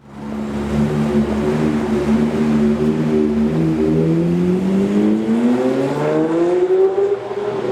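Lamborghini supercar engine running with a steady note, then revving up, its pitch rising over about three seconds and dropping again near the end.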